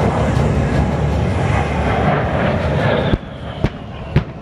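Jet noise of an A-10 Thunderbolt II's twin turbofans passing, loud and rushing, then falling off sharply about three seconds in. Three sharp knocks follow, about half a second apart.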